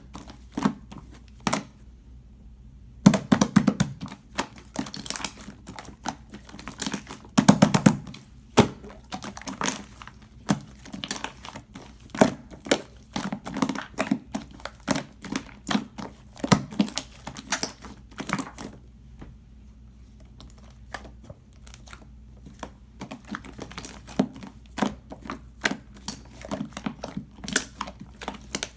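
Chewing gum being snapped and popped in the mouth ('꽈리'), giving quick irregular pops and clicks close to the microphone. The pops come in denser, louder clusters about three seconds in and again near eight seconds, and thin out for a few seconds past the middle.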